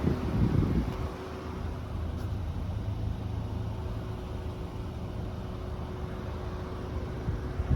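2022 Volkswagen Golf R's turbocharged four-cylinder running through its Akrapovic exhaust: a low rumble that swells briefly in the first second, then settles to a steady idle.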